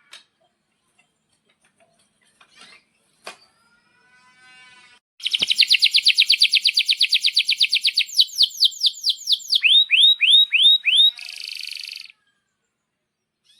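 Male domestic canary singing. After a few faint calls and clicks, a loud song starts about five seconds in: a fast rolling trill, then a run of quick falling whistled notes, a few slower swooping notes, and a short buzzy phrase. The song stops abruptly about twelve seconds in.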